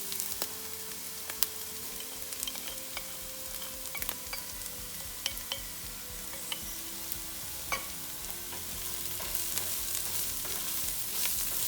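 Onions frying in oil in a pan: a steady sizzle with scattered small crackles and clicks, as the spices go into the hot onions.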